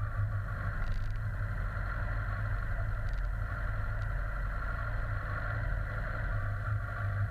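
Steady rumble of riding a bike: wind and road noise on the camera, with a few faint clicks.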